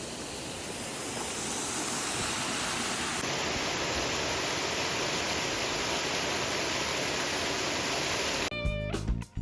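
Steady rush of flowing water, growing louder about a second in. Plucked guitar music comes in near the end.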